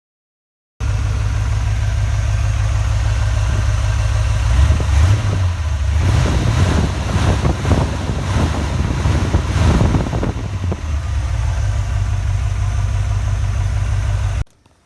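An engine starts running abruptly about a second in and idles steadily, with a busier, louder stretch in the middle that sounds like light revving, then cuts off suddenly near the end.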